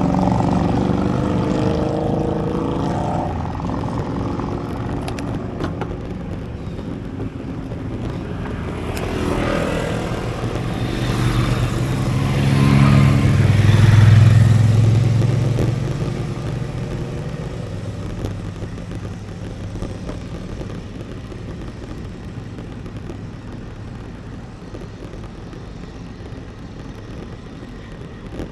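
Motor vehicles passing on a mountain road. One engine fades away over the first few seconds. Another approaches, passes loudest about halfway through with a deep engine tone, then fades, over a steady rushing of wind and road noise.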